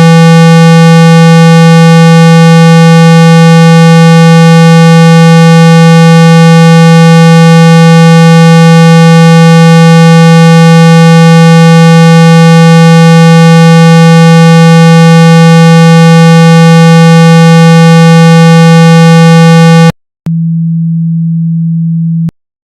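A loud, steady 165 Hz tone of the kind played to shake water and dust out of a phone speaker. It cuts off suddenly about 20 seconds in. After a brief gap, a quieter burst of the same tone sounds for about two seconds and stops.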